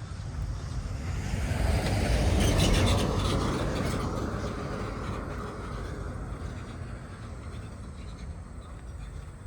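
A car passing on the road, its noise swelling over the first two or three seconds and then slowly fading away.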